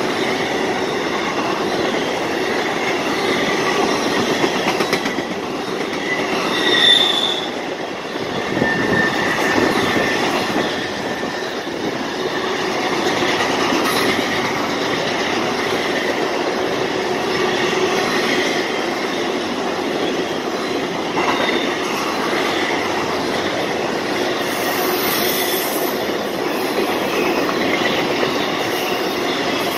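Freight train cars rolling past on the rails: a steady, fairly loud noise of wheels on track, with brief high wheel squeals about 7 seconds in and again around 10 seconds.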